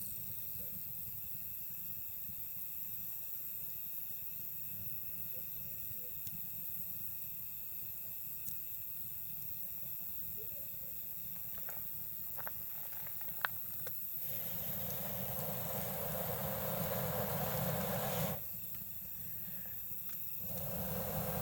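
Wood campfire burning, with a few sharp crackling pops about two-thirds in, over steady high insect calls. A hissing rush swells after the pops, cuts off suddenly and returns near the end.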